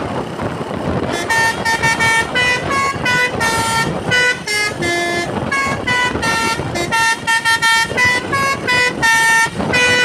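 Basuri multi-tone musical horn on a Hino truck playing a quick melody of short toots, the pitch jumping from note to note several times a second, starting about a second in. Engine and road noise run underneath.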